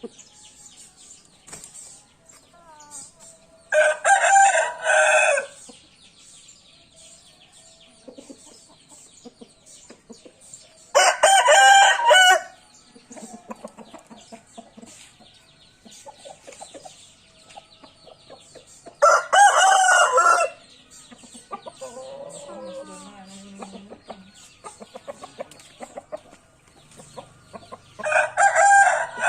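Bangkok game rooster crowing, four loud crows each lasting a second or two, spaced about eight seconds apart, with clucking and a faint high rapid ticking in between.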